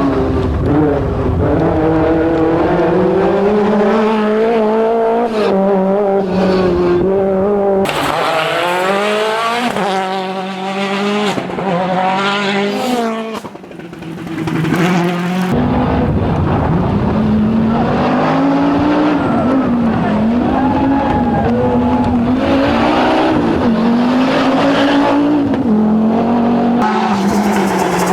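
Rally car engines revving hard and passing at speed, the pitch climbing and dropping through gear changes, with tyre noise on the road surface. The sound changes abruptly a couple of times as one car gives way to another.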